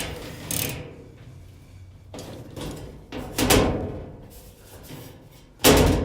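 Sheet-metal panels of a clothes dryer being handled: a series of knocks and scrapes, the loudest a sharp knock near the end.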